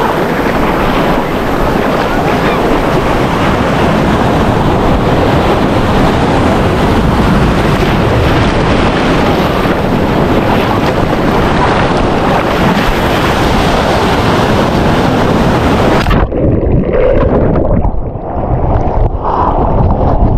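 Sea surf on a beach with wind buffeting the microphone, a loud, steady rush. About sixteen seconds in, the sound cuts abruptly to a duller, more uneven rumble.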